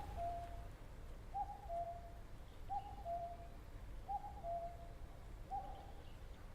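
Common cuckoo calling its two-note "cuck-oo", a higher note falling to a lower one, repeated five times about every second and a half.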